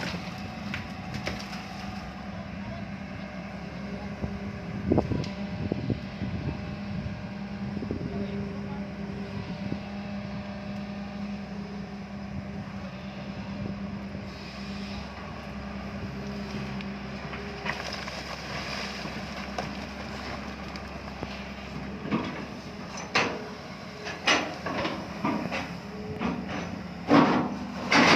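Excavator engine running at a steady speed. In the last few seconds there is a series of sharp knocks and clanks.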